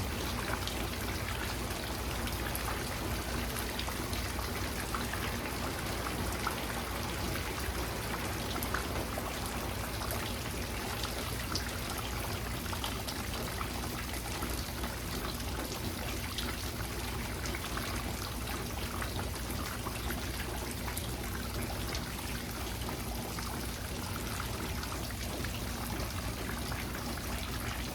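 Steady rain falling, with many small drops pattering and water trickling.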